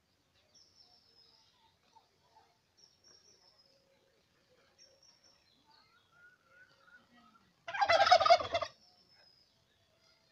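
Domestic turkey gobbling once, a rapid rattling call about a second long near the end. Faint high chirps sound on and off before it.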